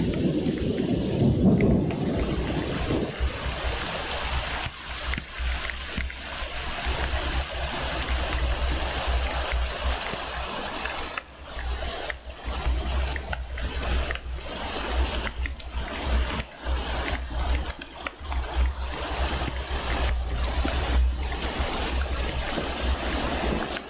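Steady rain hissing down in a thunderstorm, with a low thunder rumble dying away in the first two seconds.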